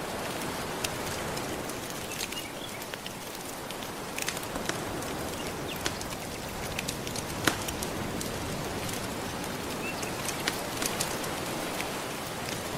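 Gentle ocean waves washing steadily under a crackling wood fire, with irregular sharp pops and snaps scattered throughout; the loudest pop comes about halfway through.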